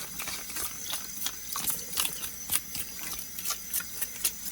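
Water running at a kitchen sink while a shellfish shell is scrubbed with a toothbrush, giving irregular scratching strokes and small clicks over the hiss of the water.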